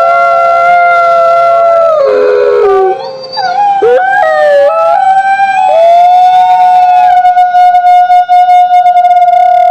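A pack of wolves howling in chorus: several long howls overlapping at different pitches, with a brief stretch of quick sliding, wavering calls about a third of the way in, then one steady high howl held through the last few seconds.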